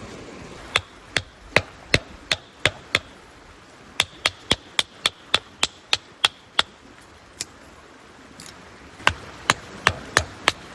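A tool striking hard, with sharp knocks in three runs of about three blows a second and a single knock between the second and third runs.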